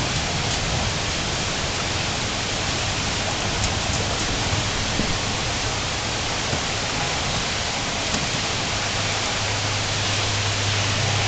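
Heavy rain falling steadily, a dense even hiss with a few sharper drop ticks. A low rumble swells up near the end.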